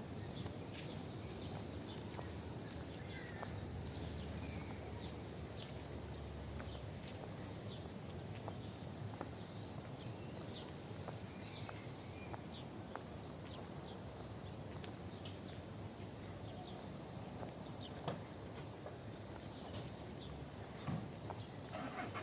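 Outdoor ambience of a resort promenade: a steady wash of background noise with scattered light footsteps and clicks.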